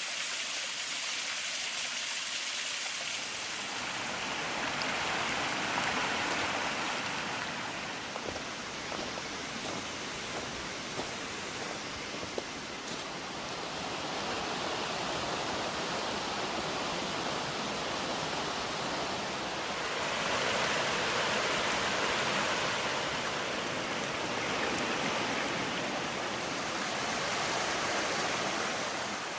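River water rushing steadily, a full even noise that swells and eases slowly, with a few faint sharp clicks around the middle.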